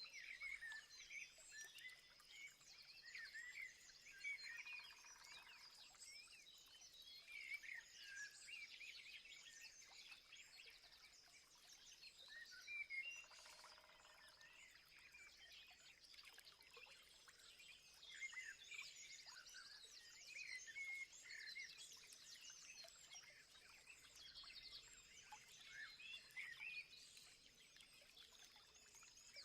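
Faint chorus of many small birds chirping and calling over a steady high-pitched hum, with a lower, pitched call twice.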